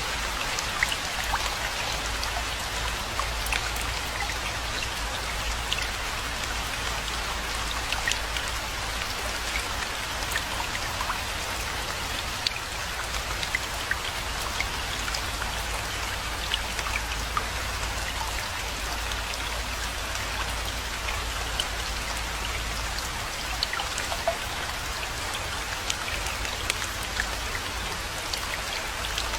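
Steady rainfall: an even hiss with many distinct close drop hits scattered through it, over a steady low rumble.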